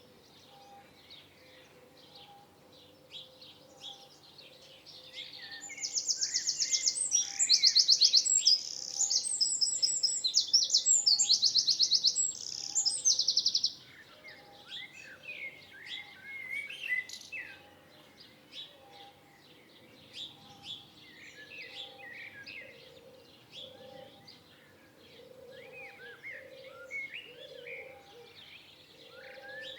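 Songbirds chirping and calling in a mixed chorus. From about six to thirteen seconds in, one bird sings a loud, very fast trilling song made of rapid repeated high notes.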